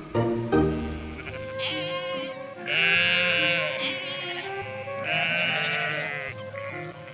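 Sheep bleating several times in long, wavering calls over background music with sustained notes.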